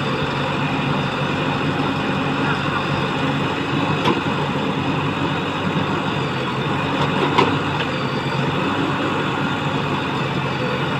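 Heavy diesel machinery engine running steadily, with two sharp knocks about three seconds apart.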